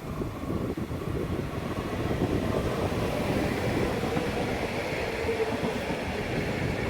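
Train running on the line: a steady rumble of wheels on rails that grows louder about two seconds in.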